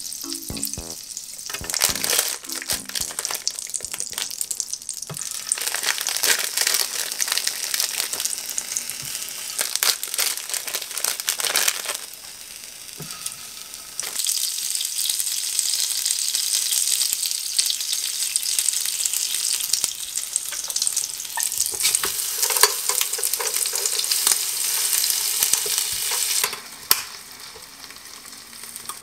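Butter sizzling on the hot plates of an electric waffle maker, then mugwort rice cakes (garaetteok) sizzling as they fry on the plates; the sizzle falls away sharply near the end as the lid is shut.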